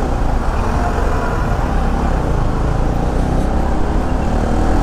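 Bajaj Pulsar NS200 motorcycle riding in traffic: the engine runs steadily under a heavy low rumble of wind on the camera's microphone.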